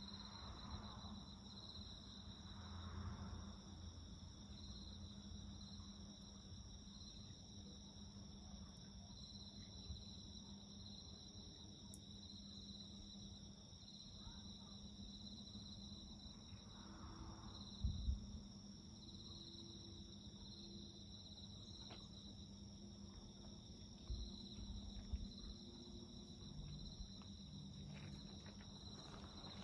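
Crickets or other night insects chirring steadily at a high pitch with a slight pulse, faint. A few small crackles from the wood fire come through, and there is a low thump about eighteen seconds in.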